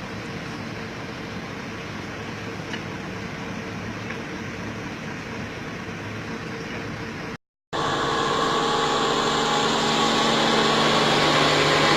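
Heavy Scania truck's diesel engine running steadily, a low drone with hiss. The sound cuts out for a moment about seven and a half seconds in, then comes back louder with a different low tone.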